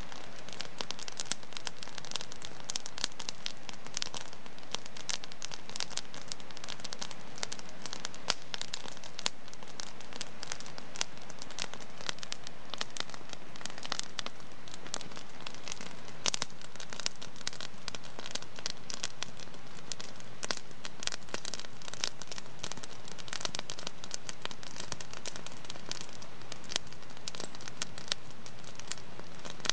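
Wood fire crackling in a fireplace: a steady stream of small pops and snaps over a soft hiss of flames.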